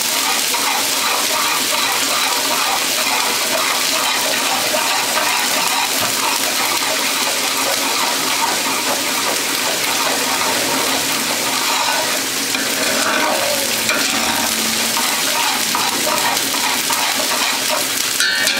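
Garlic-ginger paste sizzling steadily in hot oil in a large aluminium pot as a ladle stirs it, being fried to cook off its raw taste.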